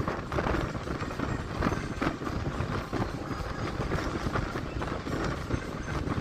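Union Pacific freight train cars rolling past, a steady rumble of wheels on rail.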